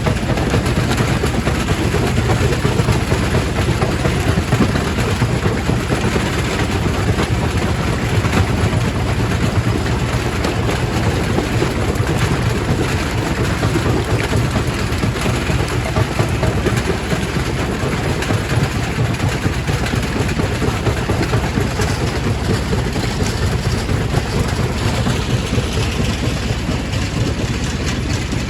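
Quarry primary rock crusher running: a steady, heavy low rumble with a dense rattle of stone being broken.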